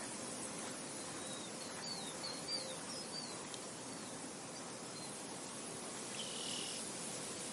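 Steady outdoor wind noise. A small bird sings a quick run of short chirping notes about two seconds in, and a short buzzy call comes near the end.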